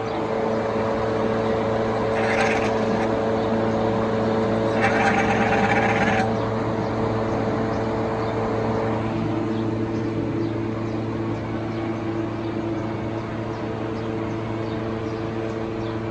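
Toyota Premio's 1ZZ four-cylinder engine running steadily. Two short bursts of higher-pitched noise come about two and five seconds in.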